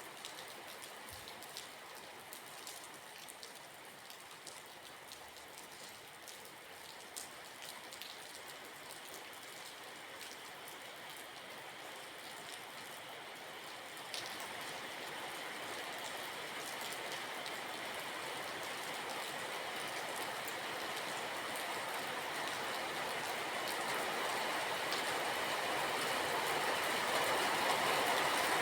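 Steady rain, with scattered drops ticking in the first half; from about halfway the rushing noise grows steadily louder.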